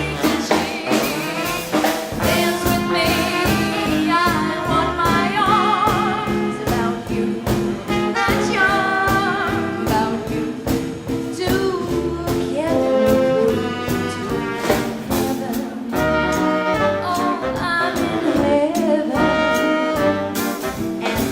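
A live swing combo playing a 1940s-style dance number, with brass and saxophone lines over a steady drum beat.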